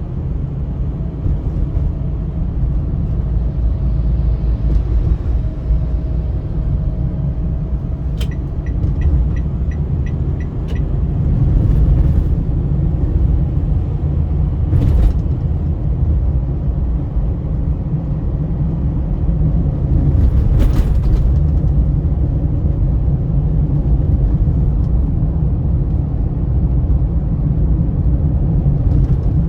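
Steady low rumble of a car driving on a highway, road and engine noise heard from inside the car. About a third of the way in there is a short run of evenly spaced ticks, a few per second, and a few brief bursts of noise later on.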